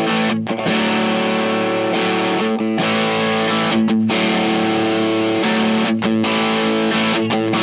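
Electric guitar played through a Wyong Rd Electronics Keris overdrive/fuzz pedal at full gain, its internal clipping switch set to off for symmetrical clipping: distorted chords let ring, with a few brief breaks between them.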